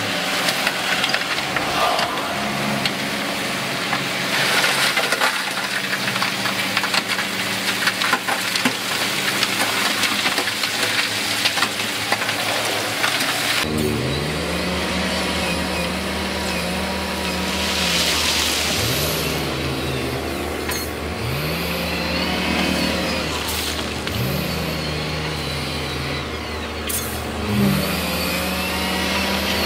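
Heavy diesel earthmoving machinery at work: engine noise with many small knocks and rattles. About halfway through the sound changes abruptly, and a diesel engine revs up and eases off repeatedly, every two to three seconds.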